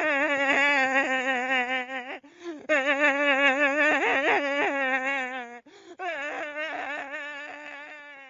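A voice holding long wavering notes, three in a row with short breaks between them, the last one fading away.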